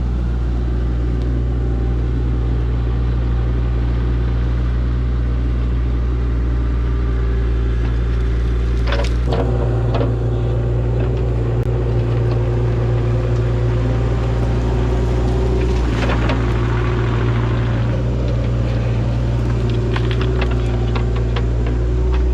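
Heavy-equipment engine running steadily at constant speed, with a few short clanks or knocks scattered through it.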